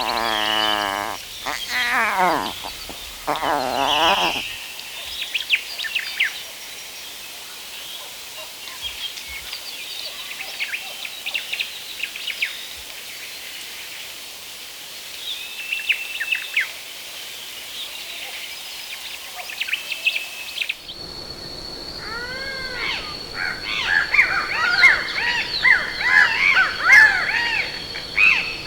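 Tropical forest ambience. In the first few seconds an animal gives two wavering calls. Scattered bird chirps follow over a steady hiss, and about two-thirds of the way through the sound changes to a steady high insect drone under a busy chorus of repeated, arching bird calls.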